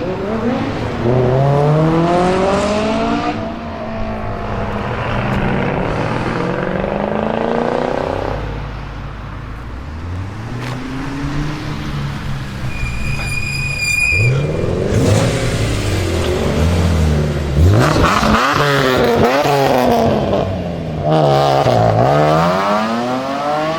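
BMW performance car engines accelerating hard, the pitch climbing and dropping back as they shift through the gears, then cars driving past with the pitch rising and falling, several times in the second half. A short high whistle-like tone sounds about halfway through.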